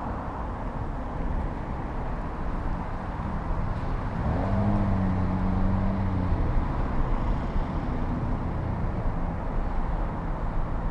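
A car's engine passes close by, a low hum that swells about four seconds in and fades a few seconds later, over steady low street and riding noise.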